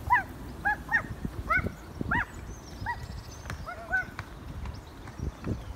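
A string of short bird calls, each rising and falling quickly, about two a second, stopping about four seconds in, over low wind rumble on the microphone.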